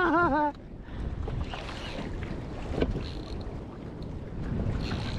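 Wind buffeting the microphone over open water from a kayak, a steady rushing noise, with a single sharp knock about three seconds in.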